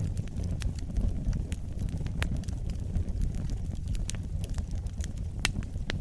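Wood fire burning with a low, steady rumble and scattered sharp crackles and pops, one louder pop near the end.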